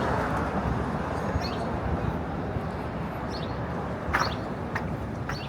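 City street ambience: a steady hum of traffic and distant voices, with a few short high chirps and a sharp click about four seconds in.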